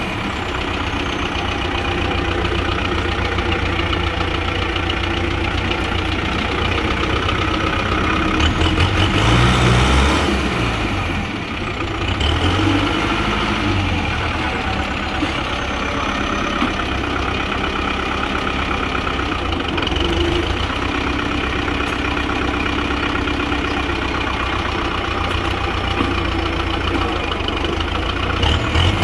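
Kubota M6040SU tractor's diesel engine running steadily. It swells louder about ten seconds in, dips briefly just after, then settles back to a steady run.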